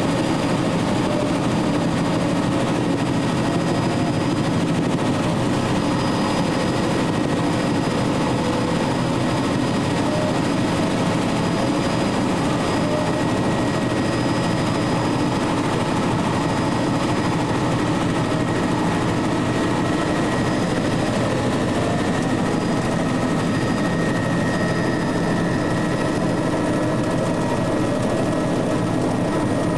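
Helicopter engine and rotor noise, a steady unbroken drone with a few faint whining tones.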